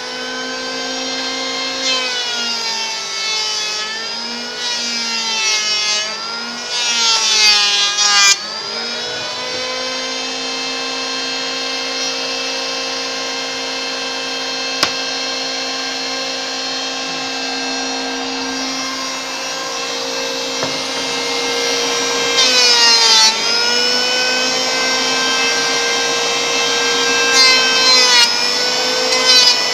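Electric wood planer running with a steady motor whine. Its pitch sags and recovers several times in the first eight seconds and briefly twice later on, as the blades bite into a board and the motor slows under the load.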